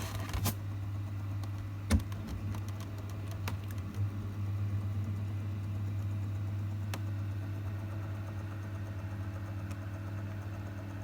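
Homemade egg incubator's heater fan and automatic egg-turner motor running with a steady hum, running smoothly. Several sharp clicks come over it, the loudest about two seconds in.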